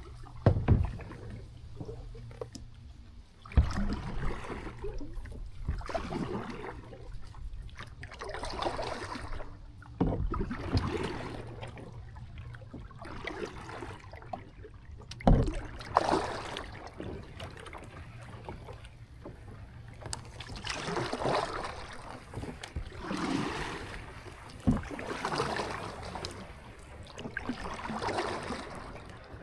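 Kayak paddle strokes: the blades dip and swish through the water in a steady rhythm, about one stroke every second and a half. A few dull thumps sound in the first half.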